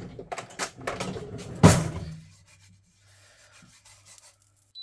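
Kitchen handling sounds: cookware being moved and rubbed, with one sharp knock a little under two seconds in. The rest is quiet apart from a faint low hum.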